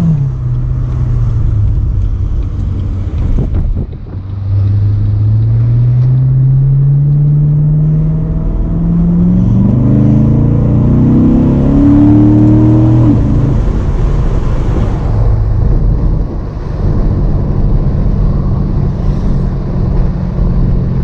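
Chevrolet C7 Corvette's V8 accelerating hard, its pitch climbing through a gear and into the next, then dropping suddenly about two-thirds of the way in and settling into steady cruising.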